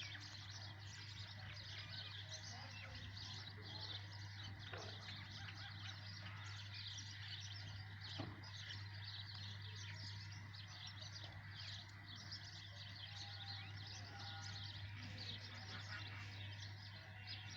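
Small birds chirping steadily, many quick high chirps overlapping throughout, over a steady low hum.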